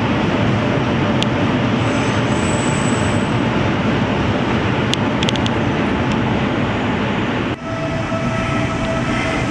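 A train running on the rails through the station: a steady loud rumble of wheels, with a few sharp clicks. About three-quarters of the way in the sound dips briefly, and then a faint steady whine joins the rumble.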